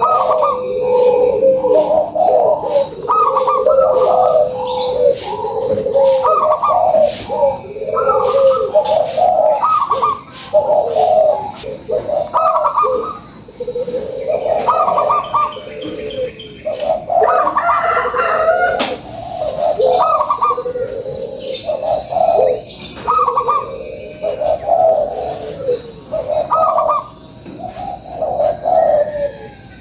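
Zebra dove (perkutut) cooing its rhythmic song, one phrase after another with short gaps, singing actively. Scattered sharp clicks sound alongside.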